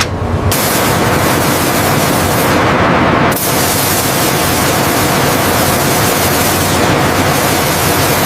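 Loud, steady hissing noise with no clear pitch, breaking off briefly about half a second in and again just after three seconds.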